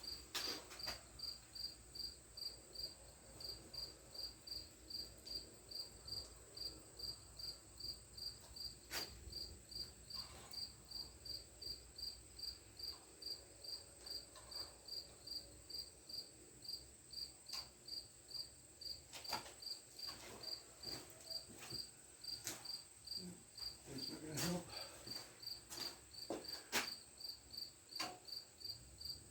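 A cricket chirping steadily, short high chirps about twice a second, over a faint steady high hum. A few knocks from metal parts or tools being handled come about nine seconds in and again between about nineteen and twenty-seven seconds.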